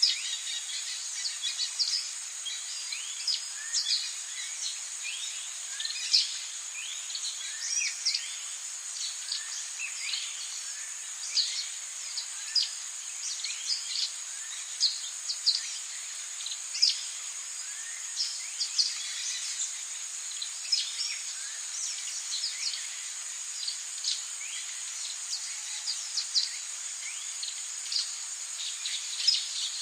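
Rainforest ambience: a steady high-pitched insect drone, with many short chirps falling in pitch coming irregularly one to three a second.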